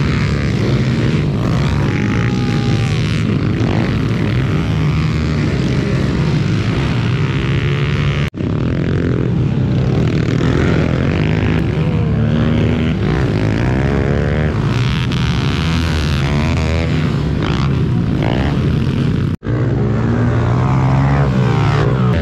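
Several pit bike engines revving hard, their pitch rising and falling as the bikes race. The sound breaks off for an instant twice, about a third of the way in and near the end.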